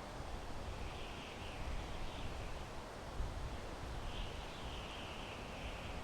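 Wind blowing through pine trees: a steady rushing hiss with an uneven low rumble of gusts. Two faint, wavering higher-pitched passages come through, one about a second in and one about four seconds in.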